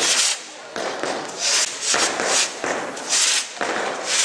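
Fireworks going off in quick succession, about two bursts a second, each with a hissing, crackling tail.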